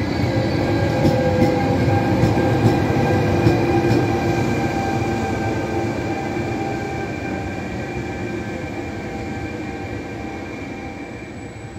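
Electric regional train, an E.464 locomotive with Vivalto double-deck coaches, running through the station. It gives a steady whine over rolling wheel noise, with a few clicks of wheels over rail joints in the first few seconds, and grows gradually quieter.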